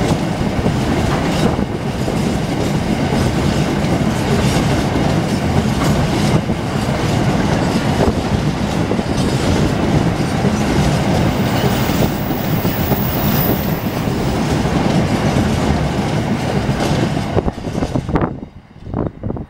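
Empty intermodal container flat wagons of a freight train rolling past, with a dense rumble of wheels and rhythmic clickety-clack over the rail joints. The noise drops away sharply near the end as the last wagon goes by, leaving a few fainter wheel clacks.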